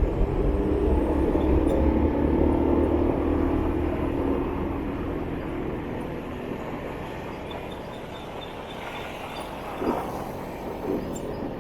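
Traffic and engine noise heard from a motorbike riding through city streets, loudest for the first few seconds and then easing off, with two short sharp sounds near the end.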